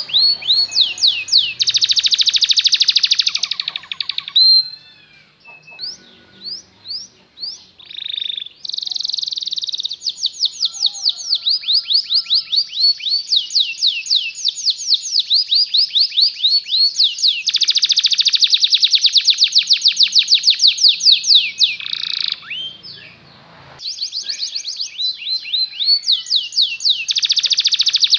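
Domestic canary singing long rolling trills of rapid, evenly repeated high sweeping notes. Its song breaks into a few short separate chirps about five seconds in, then runs on in long fast trills with a brief pause near the end.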